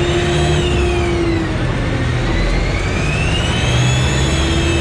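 Sherp 10x10 all-terrain vehicle's engine running steadily under load while driving, with a high whine that falls away about a second in and climbs back up near the end.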